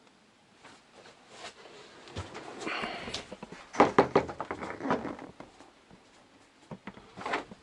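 Handling noises in a small room: a run of clicks, knocks and rustling in the middle, loudest about four seconds in, with a couple more knocks near the end.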